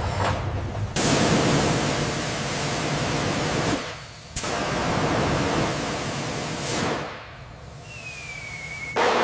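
Loud steady hissing noise in long bursts that start and stop abruptly, with a click just before the second burst. Near the end a faint whine falls slowly in pitch, and then the hiss starts again sharply.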